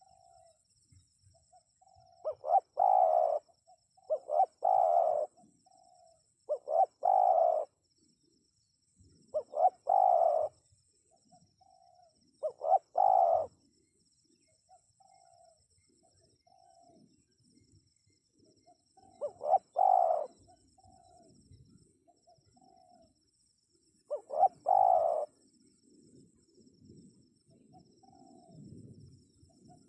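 Spotted dove (tekukur) cooing in repeated phrases, each a short run of coos with one loud main note, about every two to three seconds. Softer single coos fall in between, and there is a longer pause in the middle. A faint steady high-pitched buzz runs underneath.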